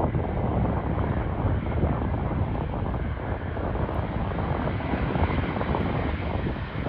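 Airliner engines running, a steady rush of engine noise without a clear tone, with wind gusting on the microphone.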